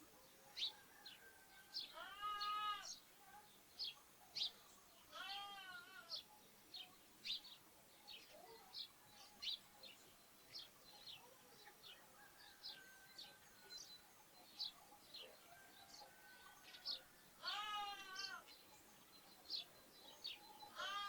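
Lambs bleating four times with high, wavering cries, over steady short chirping of sparrows.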